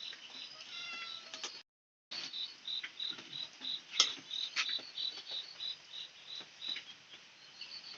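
A cricket chirping steadily, about three short high chirps a second, with a few sharp clicks mixed in. The sound cuts out for about half a second near the start.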